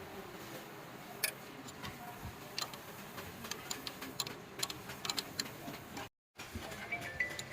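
Scattered, irregular light clicks and taps of hand tools and metal parts during diesel engine repair work, over a low workshop background. The sound cuts out completely for a moment about six seconds in.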